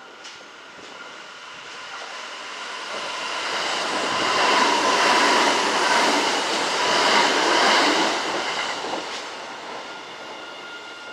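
A Kintetsu electric train going by close to the platform. Its running noise swells over a few seconds, is loudest about half-way through, then fades.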